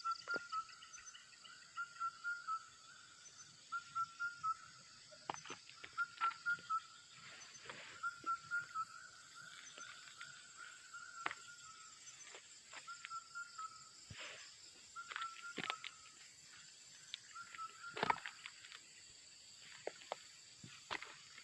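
Bird calls at dusk: a short call repeated in quick runs of two to four notes, over a steady high drone of insects.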